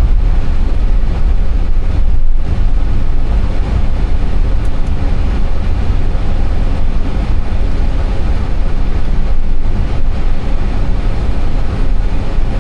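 Steady low rumble and hiss of an Airbus A320 heard inside the cockpit.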